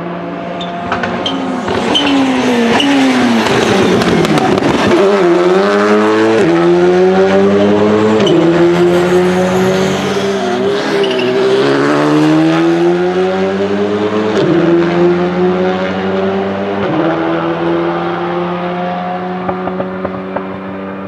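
A rally car's engine braking hard with crackling pops as the revs drop, then accelerating away through four upshifts, each a sudden drop in pitch, before fading.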